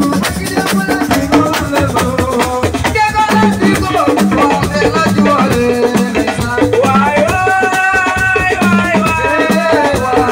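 Live assiko band music: a fast, dense rhythm of drums and shaker-type percussion under a melody, with a long held note about seven seconds in.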